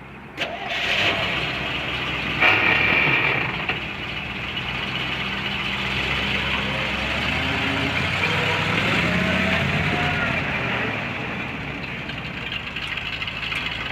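1979 Chevrolet C60 grain truck's engine running, louder in two short bursts in the first few seconds, then settling to a steady idle.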